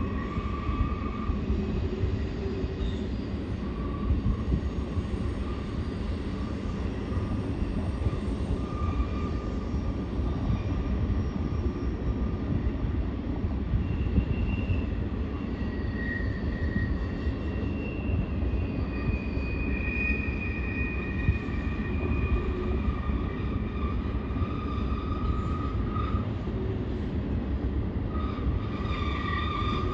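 Long freight train of covered hopper cars rolling through a curve: a steady rumble of wheels on rail, with drawn-out wheel squeals that rise and fade every few seconds.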